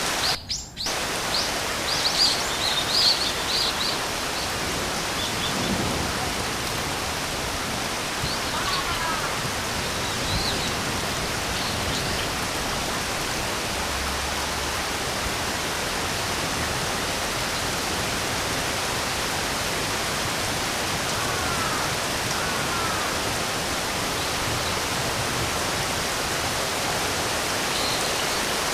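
Steady rain falling, with birds chirping: a quick run of high chirps in the first few seconds and a few short calls scattered later. The rain sound briefly cuts out just after the start.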